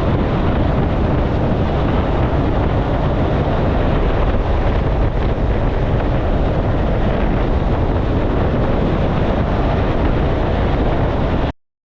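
Kenworth K200 road train driving at speed: a steady rush of wind and road noise over the running engine. It cuts off suddenly near the end.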